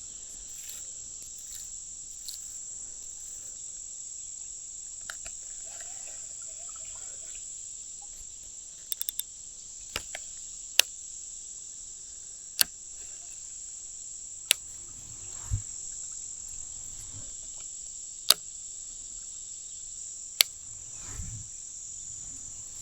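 Insects chirring in a steady high drone, with several sharp clicks from about ten seconds in.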